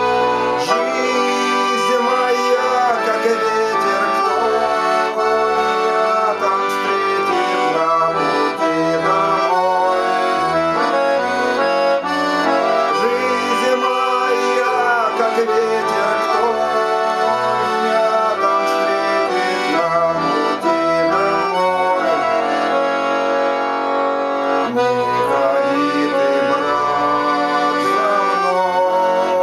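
Accordion playing a Cossack folk-song tune without voice, the melody over changing bass notes.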